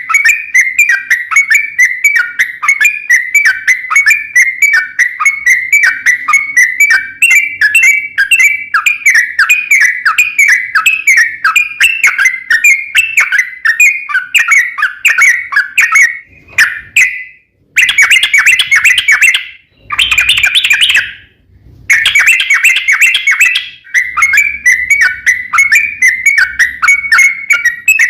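Yellow-vented bulbul singing a long, rapid run of chattering notes, about four a second, with a few brief breaks near the middle.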